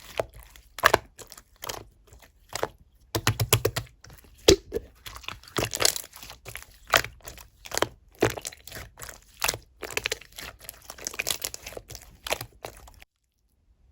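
Clear slime being pressed, stretched and poked by hand, giving off quick irregular clusters of crackling pops and squelches as trapped air bubbles burst. The sound cuts off suddenly near the end.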